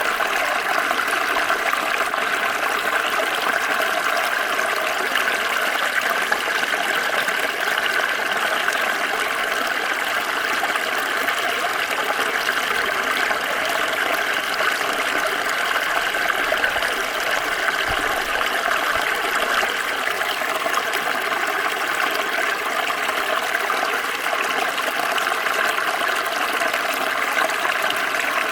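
Water of a small stream running over stones: a steady, even splashing and rushing that does not change.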